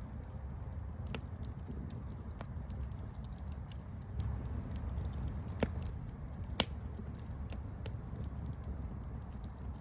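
Campfire crackling: a steady low rumble of burning wood with scattered sharp snaps and pops, the two loudest a second apart just past the middle.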